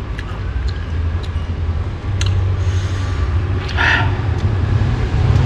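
Steady low rumble of nearby road traffic, with a few light clicks and a short, louder sound about four seconds in.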